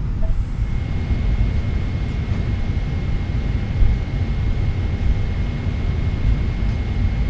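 Steady low rumble inside a Boeing 777-300ER's cabin, with a faint steady high-pitched tone coming in about a second in.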